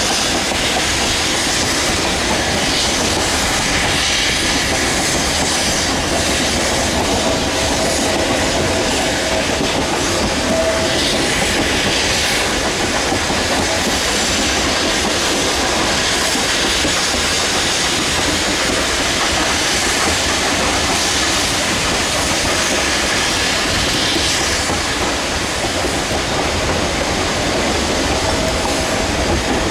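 Narrow-gauge freight cars rolling at speed, heard from inside an open gondola: a steady loud rumble and rattle of wheels on the rails. A thin wheel squeal on a curve comes in about a quarter of the way through for a few seconds and again near the end.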